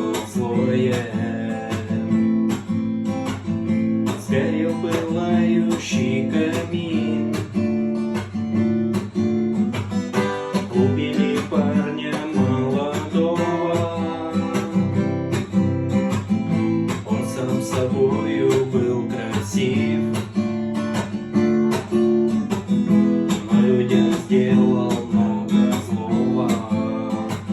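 Acoustic guitar strummed in a steady rhythm, changing chords.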